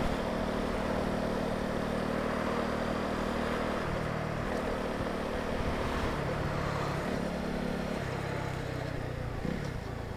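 Honda CB125R's single-cylinder 125 cc engine running on the road, with wind and road noise. In the second half the engine note drops and rises in steps several times as the bike slows in traffic.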